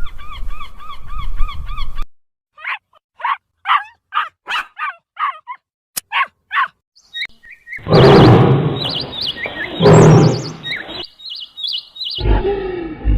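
A quick succession of different animal sounds: a fast run of repeated bird chirps, then a string of short separate calls, then louder, noisier animal sounds in the second half.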